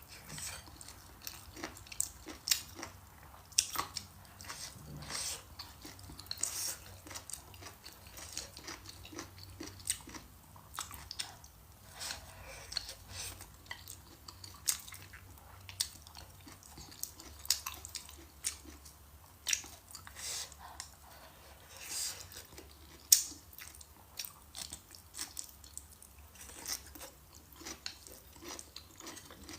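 Close-miked chewing and biting of food, with irregular crunchy crackles and wet mouth clicks.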